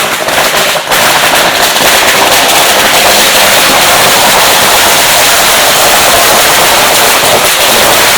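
Firecrackers going off in a very loud, dense, continuous crackle of rapid bangs, building up about a second in and holding on without a break.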